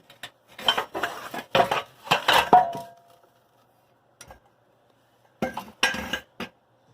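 Metal clanking and clinking in two spells of handling. One strike rings briefly at a single pitch about two and a half seconds in, and a second spell of clanks comes near the end.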